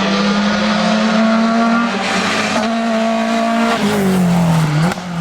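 Race car engine at high revs under hard acceleration on a hill climb. The pitch climbs steadily with two brief breaks for gear changes, then drops about four seconds in as the car lifts off, with a short rising blip just before the end.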